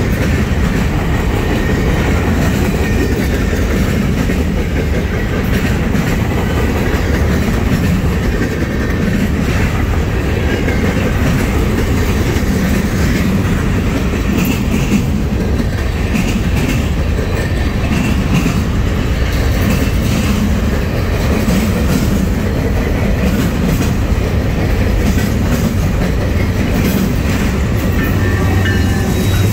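Loaded freight train of trash container gondolas rolling past at close range: a steady rumble of wheels on rail with clickety-clack over the rail joints. Near the end, Norfolk Southern diesel locomotives come by on the adjacent track, and the low rumble grows stronger.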